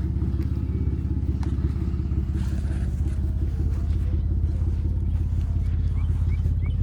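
2012 Ford Taurus Police Interceptor's 3.5-litre turbocharged V6 idling steadily, with an even, rapid exhaust pulse.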